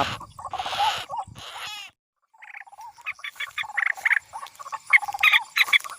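Rail calls, such as those of the white-breasted waterhen and common moorhen, as used to lure birds into nets: a string of short, harsh, croaking notes. The sound cuts out completely for a moment about two seconds in, then goes on as a quicker run of short, higher notes.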